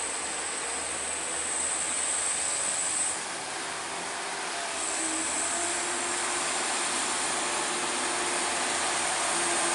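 Road traffic on a steep hill climb: a steady wash of vehicle noise. A high-pitched buzz over it breaks off for about two seconds a little after the start, then comes back.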